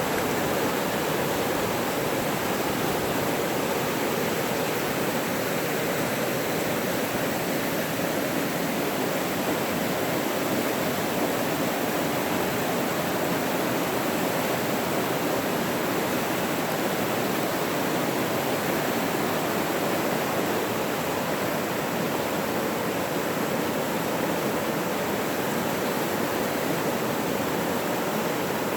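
A forest stream or cascade of running water rushing steadily, a constant even roar.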